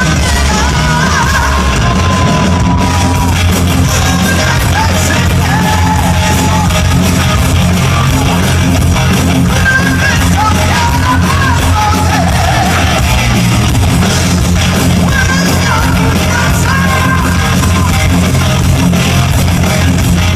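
Live rock band playing loud, heavy music, with shouted singing over the guitars and bass.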